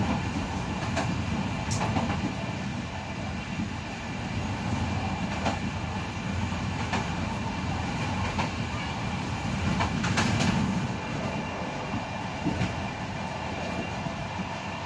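Passenger train running along the track, heard from inside its rear end: a steady rumble of wheels on rail, with irregular sharp clicks as the wheels pass over rail joints and switches.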